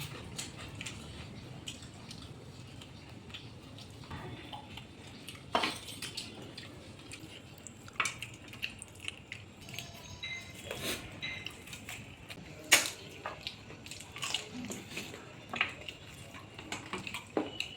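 Eating at a plate of chicken curry and rice by hand: scattered short clinks and scrapes against the plate, irregular and a few seconds apart, with the sharpest clink about two-thirds of the way through.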